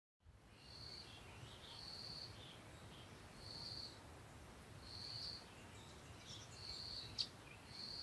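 Quiet garden morning ambience: a bird repeats a short, thin, high whistle about every second and a half, with softer chirps in between over a faint low rumble. A single sharp click just after seven seconds is the loudest sound.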